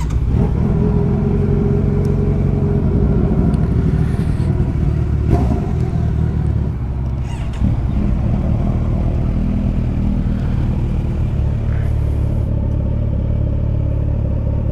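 Several sport motorcycle engines running at idle just after being started, a steady, layered engine note. The level dips briefly about seven seconds in.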